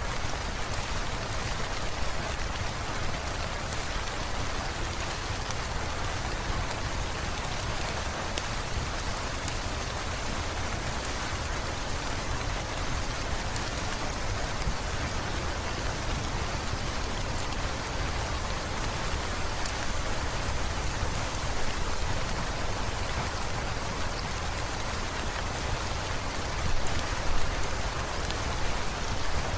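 Steady rain falling, an even wash of noise with scattered sharp drop ticks; a few louder spatters near the end.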